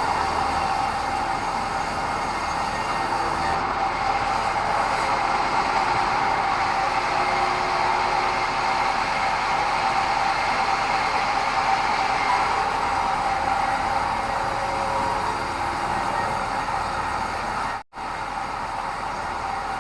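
Sawmill bandsaw running through a meranti log, a steady whine over continuous machine noise, cutting out for an instant near the end.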